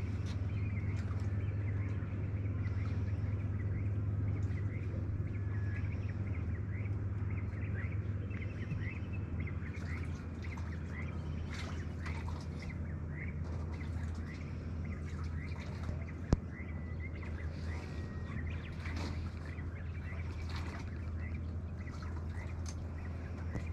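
Small birds chirping over and over in short calls, over a steady low hum, with one sharp click about two-thirds of the way through.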